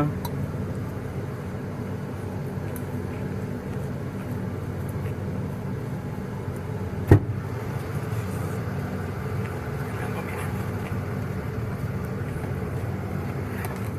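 Steady low hum of a motor vehicle, with one sharp click about halfway through.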